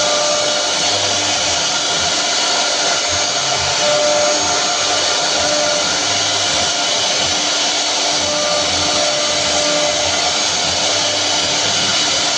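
Woodworking power machine running steadily, a constant whine with steady tones over a loud even noise.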